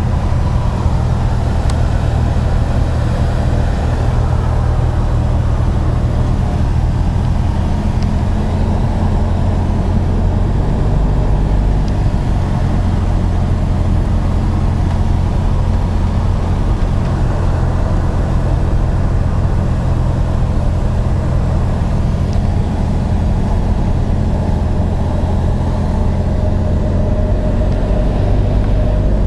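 Cessna 172M's four-cylinder Lycoming engine and propeller droning steadily during the approach to landing, with the engine note shifting about a third of the way in and again near the end as the power setting changes.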